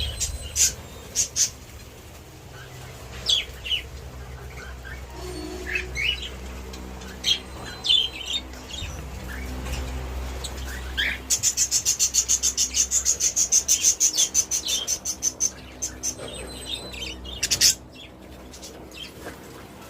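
A colony of budgerigars chirping, with scattered short calls and, about halfway through, a run of rapid repeated chirps lasting some four seconds.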